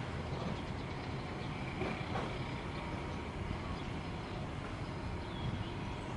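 Steady rumble of a train running along the tracks.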